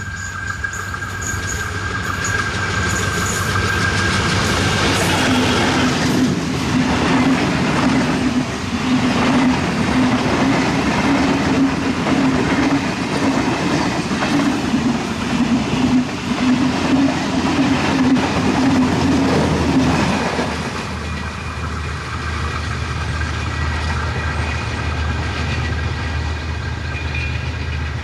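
Diesel-hauled passenger train passing close by at speed: the sound builds as the locomotive approaches, then the coaches' wheels clatter over the rail joints for about fifteen seconds. Near the end it drops to a steadier, quieter hum as the last coach pulls away.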